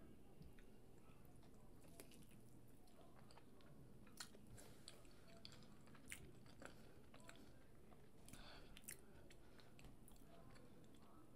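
Faint chewing and wet mouth sounds of someone eating a sauce-dipped boiled potato, with a few soft sharp clicks.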